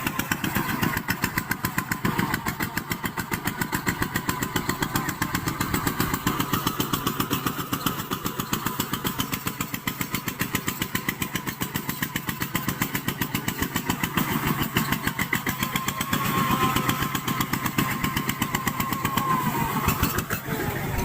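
Kubota small tractor's diesel engine running steadily with a fast, even chugging.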